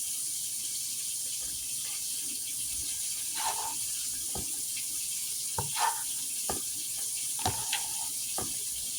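Chopped vegetables sizzling as they sauté in a pot, a steady hiss, with a few sharp knocks of a utensil against the pot in the second half.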